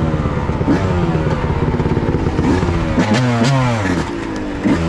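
Dirt bike engine running with the throttle blipped, its pitch rising and falling several times and dropping about three seconds in.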